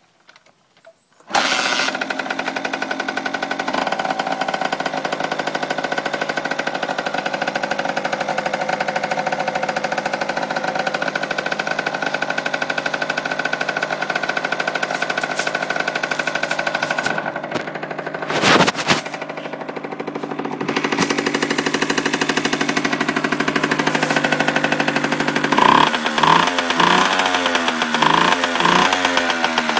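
Honda TLM50's small two-stroke single-cylinder engine starting about a second in and settling into a steady idle. A brief loud burst comes about two thirds of the way through. Near the end it is revved in several quick blips, the pitch rising and falling each time.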